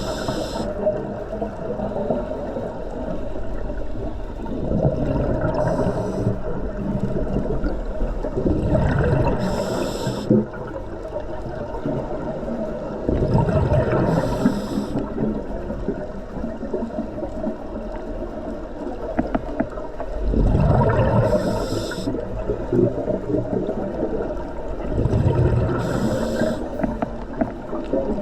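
Scuba diver breathing through a regulator underwater: about six breaths, each a short hiss of the demand valve on the inhale followed by a rumbling gurgle of exhaled bubbles, every few seconds.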